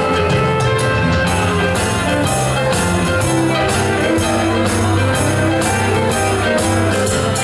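Band playing an instrumental break of an upbeat pop song, with guitar over bass and a steady drum beat.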